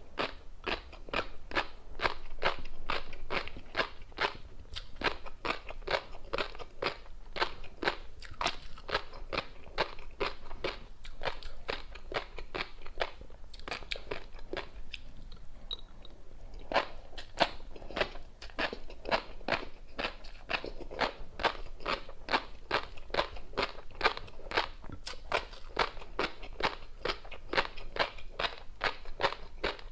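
Close-miked chewing of tobiko (flying fish roe) mixed with a crunchy seafood topping: quick crisp crunches and pops, about three a second, with a pause of a few seconds about halfway through.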